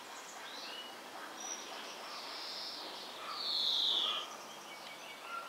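Small birds chirping and calling over a faint steady background hiss, with one louder, slightly falling call a little past halfway.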